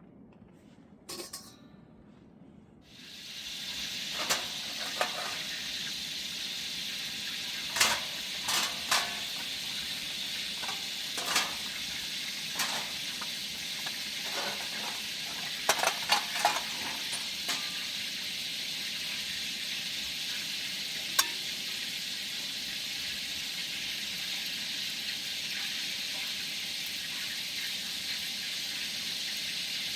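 Food frying in a pan: a steady sizzle that sets in about three seconds in, with scattered clinks and scrapes of a utensil stirring against the pan, most of them in the first half.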